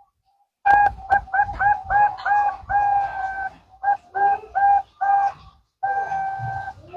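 Zebra dove (perkutut) cooing: runs of short, clipped coos broken by longer held notes, starting just under a second in, with two brief pauses.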